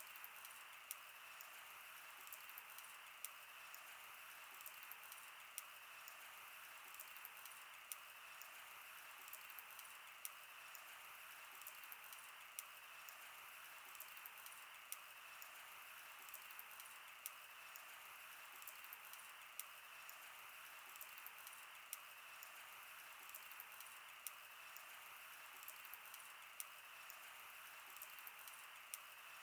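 Wood campfire burning: a soft steady hiss with frequent small crackles and sharp pops at irregular intervals.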